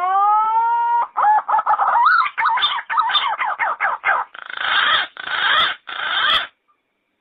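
Yellow-footed green pigeon singing: a long rising whistle that levels off, then a quick run of warbling, up-and-down whistled notes, ending in three longer, harsher notes. The song stops about six and a half seconds in.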